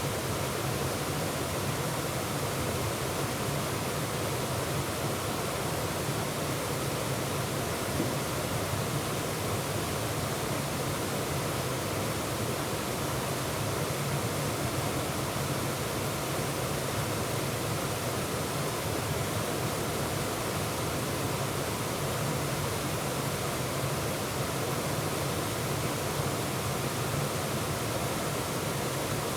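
Waterfall rushing, heard from the middle of the falls: a steady, unbroken wash of water noise.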